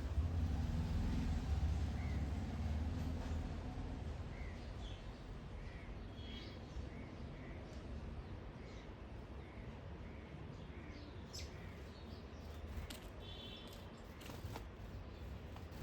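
Garden birds calling: one bird repeats a short note about twice a second for several seconds, and a crow caws now and then, over a low background rumble that fades over the first few seconds.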